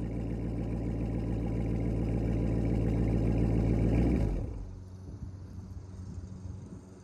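2020 Dodge Challenger R/T's 5.7-litre HEMI V8 running through a Corsa Extreme catback exhaust, growing slightly louder, then cutting off about four seconds in as the engine is shut down.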